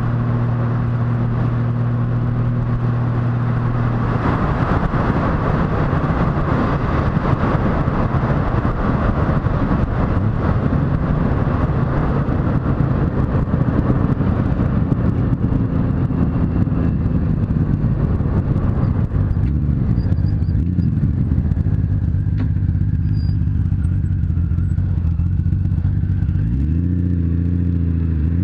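Motorcycle engine running while riding, with wind rushing over the microphone. About four seconds in the wind noise grows as speed builds, and near the end the engine pitch drops and then rises again.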